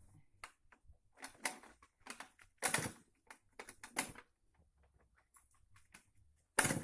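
Irregular clicking and knocking, with a louder knock near the end and no engine running.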